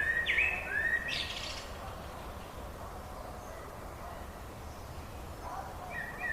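Songbirds calling: a few short notes that rise and level off, repeated at the start and again near the end, over a steady background hiss.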